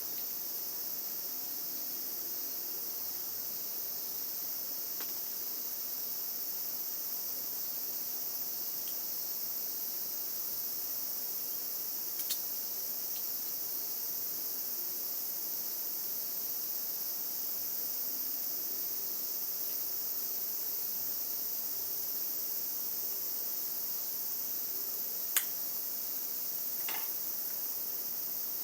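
Steady high-pitched chorus of insects, with a few sharp clicks, the loudest about 25 seconds in.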